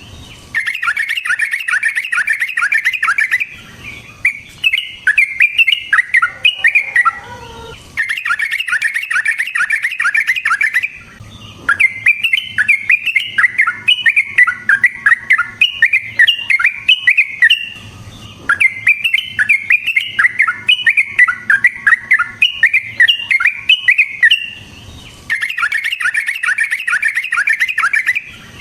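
Yellow-vented bulbul singing long, rapid phrases of bubbly chattering notes, each phrase several seconds long, with short breaks between phrases.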